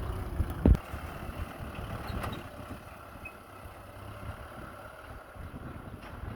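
Kubota M6040SU tractor's diesel engine running steadily at low pitch, with a single loud knock about a second in.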